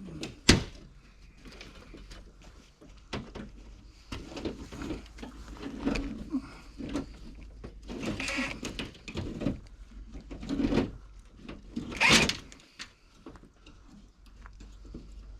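Hands-on repair work on a mobile home: a sharp knock about half a second in, then irregular knocks, scrapes and rustling of materials being handled, with a louder scrape near the end.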